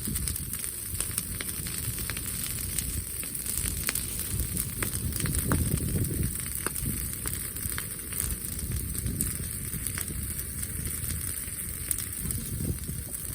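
Bonfire of brushwood and mixed hardwood burning, crackling and popping with many irregular sharp snaps over a steady low rumble.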